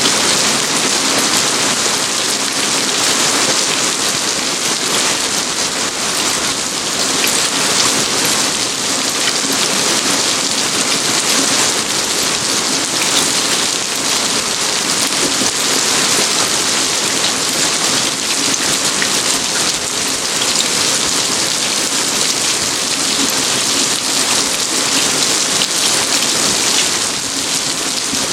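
Steady rain falling in a garden: an even, continuous hiss with the patter of individual drops.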